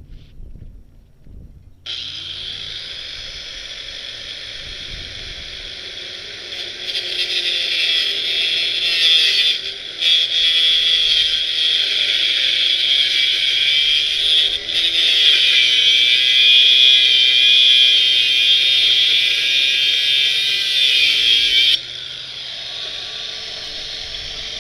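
A power tool cutting through a steel bicycle frame tube: a loud, steady grinding hiss that starts suddenly about two seconds in, grows louder, and dips in motor pitch now and then as it bogs under load. The cut ends abruptly near the end, leaving a quieter steady running sound.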